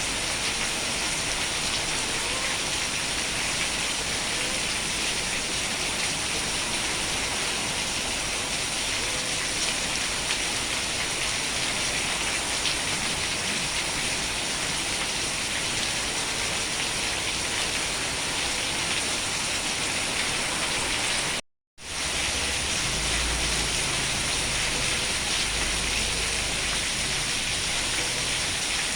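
Steady rain falling, an even unbroken hiss. About three-quarters of the way through it cuts out abruptly for half a second and resumes, with a low rumble underneath for a few seconds after.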